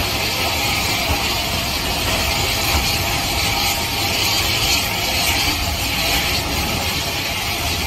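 Steady rushing noise of a train of passenger coaches running close past on the next track, heard from an open carriage window: wheels on the rails and moving air, with no distinct knocks or whistles.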